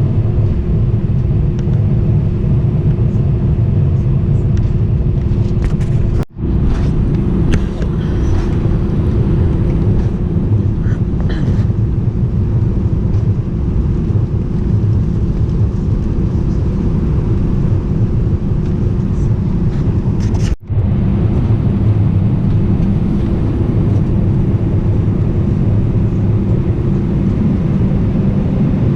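Airbus A319 cabin noise: a loud, steady, low rumble of engines and airflow with a steady hum over it. It cuts out for an instant twice, about six seconds in and again around twenty seconds in, where clips are joined, with a few faint clinks in between.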